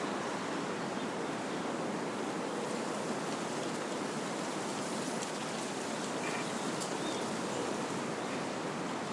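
Wind blowing through trees: a steady, even rush of leaves and branches, with a few faint high ticks.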